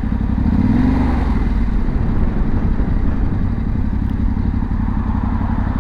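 Yamaha Ténéré 700 motorcycle's parallel-twin engine idling steadily, with a brief rise and fall in the engine note about a second in.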